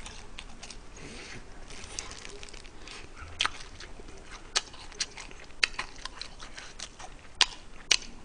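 Chewing and biting crispy fried chicken close to a microphone: irregular sharp crunches of the fried crust, a handful of them louder, over faint mouth sounds.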